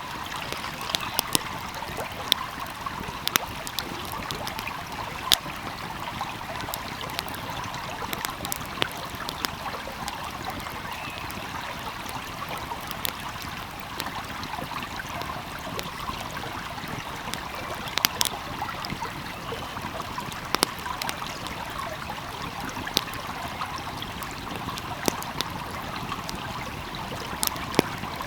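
Wood fire crackling, with sharp irregular pops scattered throughout, over the steady burble of a flowing stream.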